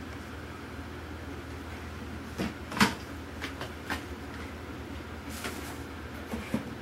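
Handling of packaged toy cars: a few sharp clicks and knocks of plastic and cardboard packaging, the loudest about three seconds in, over a steady low hum.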